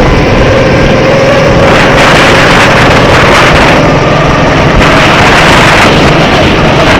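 Go-kart engine running steadily at speed, loud and close, with its pitch drifting slightly under a dense rushing noise.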